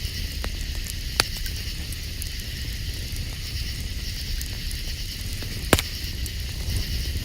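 Campfire crackling steadily, with two sharp pops, about a second in and again near six seconds in.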